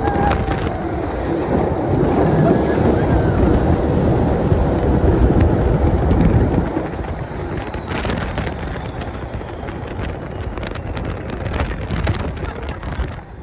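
Test Track ride vehicle running at speed on its track during the power test, a loud rumble with wind rushing over the microphone. The rush eases about seven seconds in, and a few sharp knocks follow near the end.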